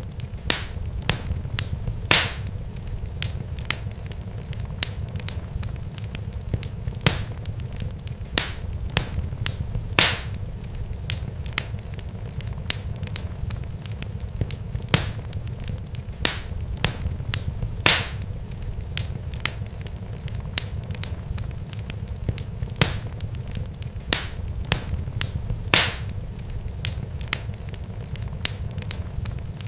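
Crackling fire: irregular sharp crackles and pops, a few much louder than the rest, over a steady low rumble.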